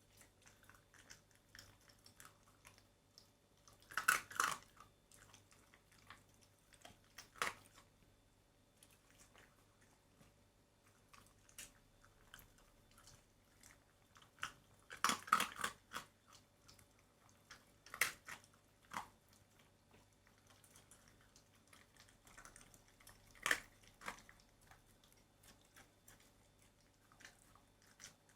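Shiba Inu chewing and biting on chicken tenderloin: soft, scattered chewing clicks, with a louder cluster of bites every few seconds.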